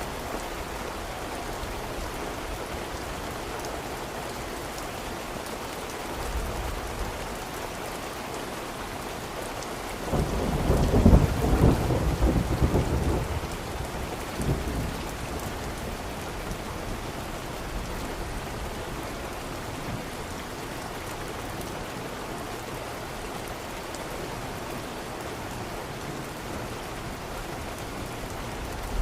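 Steady heavy rain, with a rumble of thunder about ten seconds in that swells and dies away over several seconds, and a fainter rumble a few seconds before it.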